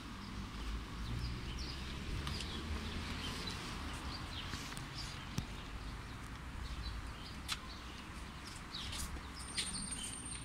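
Small birds chirping in short, scattered calls over a steady low background rumble, with a few sharp clicks.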